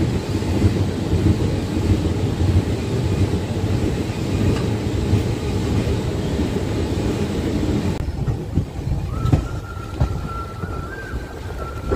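Express passenger train coaches running at speed, heard from an open coach door, with a dense rumble of wheels on rails while a second train runs alongside on the next track. About eight seconds in the rumble thins, a few knocks come over rail joints, and a thin, steady high-pitched squeal holds to the end as the train runs in along the platform.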